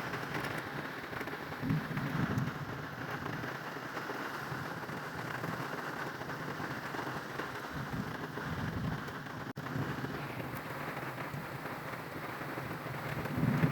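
Steady rain falling, with low rumbles of thunder swelling about two seconds in, around eight seconds in, and again near the end.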